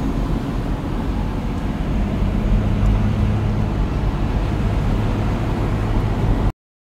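Road and engine noise inside a moving car's cabin: a steady low rumble, with a steady low hum joining about two seconds in. It cuts off suddenly near the end.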